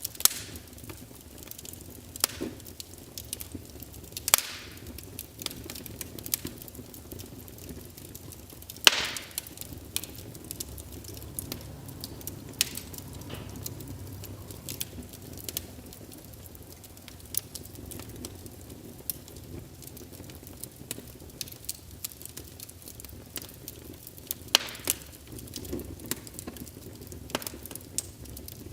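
Wood logs burning in a fireplace, crackling with irregular sharp pops, a handful of them much louder, over a low steady rustle of the flames.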